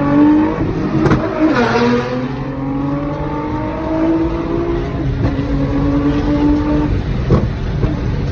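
Performance car engine and exhaust accelerating hard at speed, its pitch dropping sharply at two gear changes and climbing steadily between them, with a few short sharp exhaust pops.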